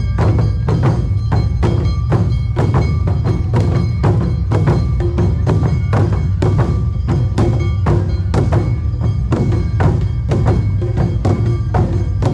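Live Awa Odori festival band music: drums and struck percussion keeping a fast, even beat of about three strokes a second, with steady ringing tones above.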